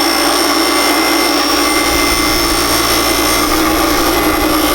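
A power cutting tool running steadily with a high whine and hiss as it chops the flange off a steel exhaust header pipe. It starts and stops abruptly.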